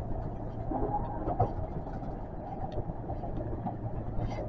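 Osaka Metro 400 series electric train running, heard from inside the cab as it rolls into a station: a steady low hum with faint rail clicks.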